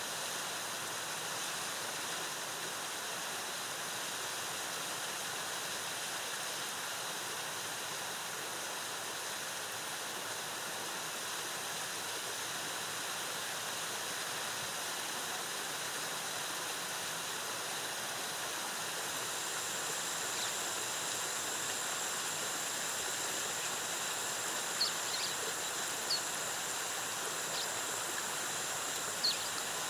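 Rainforest waterfall: cascading water with a steady, even rush. About two thirds in, a steady high-pitched tone joins it, and a few brief high chirps sound near the end.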